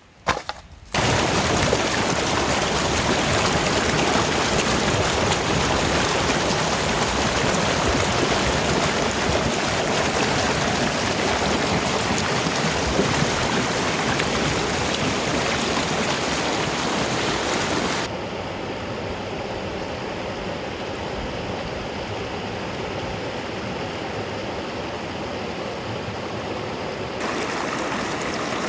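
Steady rush of fast-flowing stream water, starting suddenly about a second in. About two-thirds of the way through it turns abruptly quieter and duller, then brightens a little near the end.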